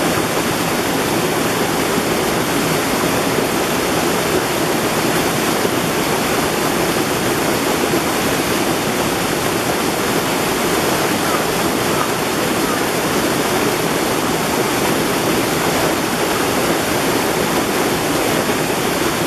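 Mountain stream water rushing steadily over rocks, a constant full rushing with no breaks.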